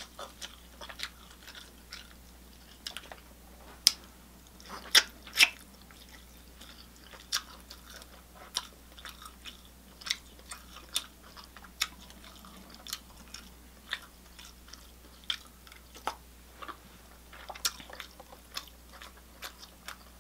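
Close-miked chewing and mouth smacking of a person eating a seafood boil, with sharp clicks and cracks scattered all through; the loudest three come around four to five and a half seconds in.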